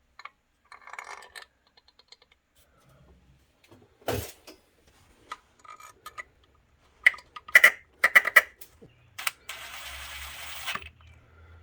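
Scattered metallic clicks and clinks of intake manifold bolts and hand tools being handled as the lower intake is set in place, with a short hiss lasting about a second near the end.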